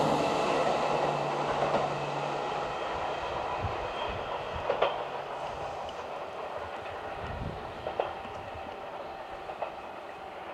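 Keihan 6000-series electric train running away along the track, its sound fading steadily. A low motor hum dies out in the first couple of seconds, and a few single wheel clacks over rail joints follow.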